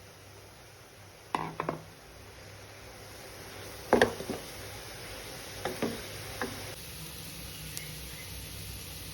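Sharp knocks of cooking utensils in three small clusters of two or three, about a second and a half and four and six seconds in, over a faint steady background.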